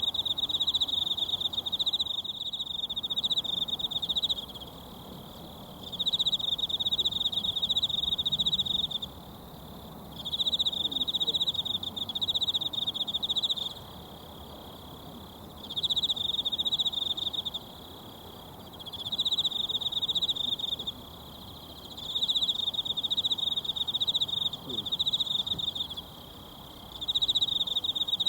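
An insect trilling high and fast in repeated bursts of two to three seconds with short pauses between them, over the steady rush of a mountain stream.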